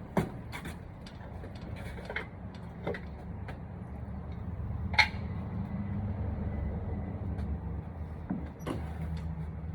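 Scattered knocks and clicks of wood and tools being handled, with one sharper knock about five seconds in, over a steady low hum.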